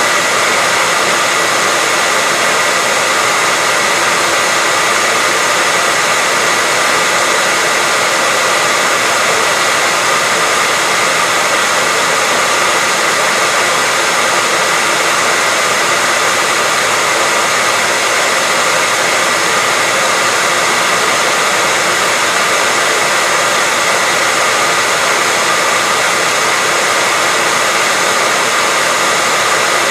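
Hair dryer running steadily: a constant blowing hiss with a high whine from its fan motor, unchanging throughout.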